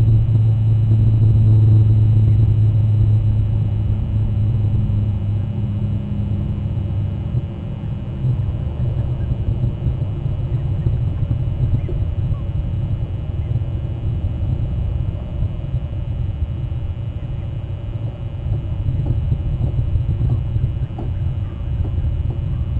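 Low rumble, with a steady engine-like hum that fades away about seven seconds in.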